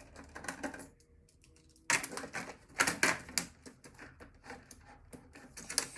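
Clicking and rattling of screws, a screwdriver and metal parts being handled while a desktop computer is taken apart: a few scattered clicks, a short pause, then dense clatter from about two seconds in.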